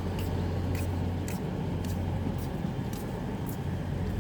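Diesel multiple unit, a Class 156 leading a Class 158, running steadily as it moves out of the station: a constant low drone with a few faint, irregular clicks.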